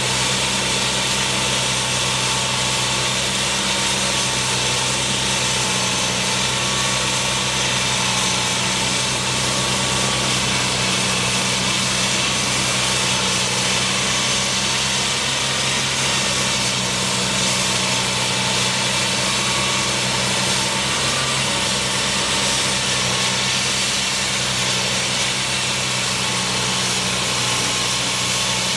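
Engine of construction machinery running steadily at constant speed, a low hum under a wide hiss.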